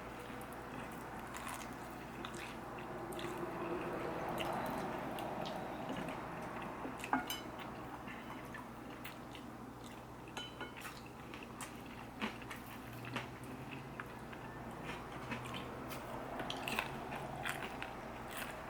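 A person biting and chewing crispy fried food, irregular crunches with one sharper crunch about seven seconds in.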